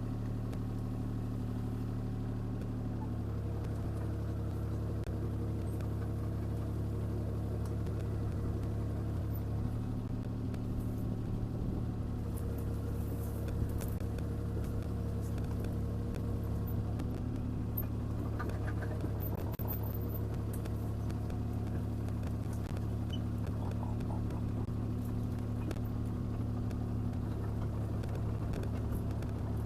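Diesel engine of a CAT 303C CR mini excavator running steadily under work, its note shifting slightly a few times as the machine swings and travels carrying an uprooted tree on a bucket tooth.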